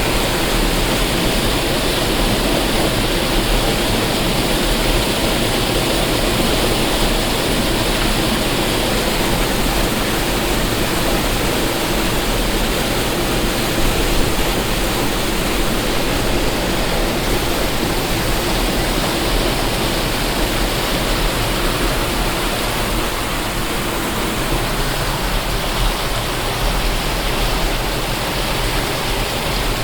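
Waterfall: water falling and splashing in a steady, loud rush with no let-up.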